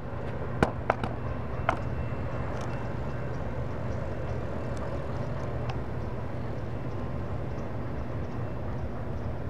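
Steady low rumble of a freight train moving away and street traffic, with a few sharp clicks in the first two seconds.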